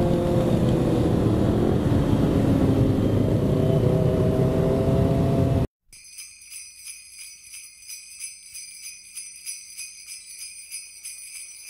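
Motorcycle engine running at a steady speed under heavy wind noise on a helmet-mounted camera, cutting off abruptly about six seconds in. Then fainter sleigh bells jingle in an even rhythm, about three or four shakes a second.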